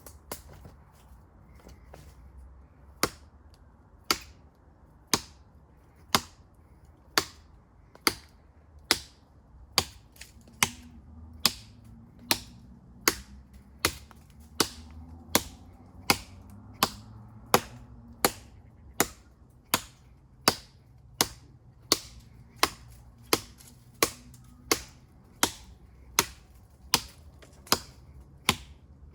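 Knife with a convex-grind blade chopping into a tree trunk: a long series of sharp, evenly spaced blows starting about three seconds in, about one a second and quickening slightly later on.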